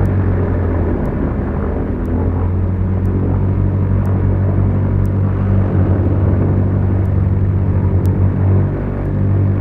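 Steady drone of a Beechcraft Duchess's twin piston engines and propellers heard in cruise. Past the middle a pulsing beat sets in, the throb of the two propellers turning at slightly different speeds.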